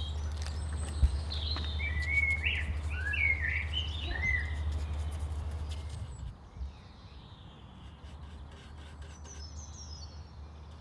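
Small birds chirping in short rising and falling calls for the first four seconds or so, with a few fainter high chirps near the end. A low steady rumble sits underneath until about six seconds in, and there is one sharp tap about a second in.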